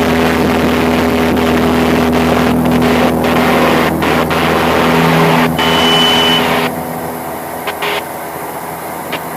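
Carbon Cub light airplane's piston engine and propeller at full takeoff power during the climb, a steady drone. A brief high steady beep comes about five and a half seconds in, and the sound drops noticeably about a second later.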